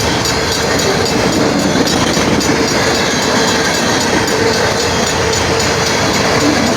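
Train passing close by at a road crossing: a loud, steady noise of its wheels and cars running over the track.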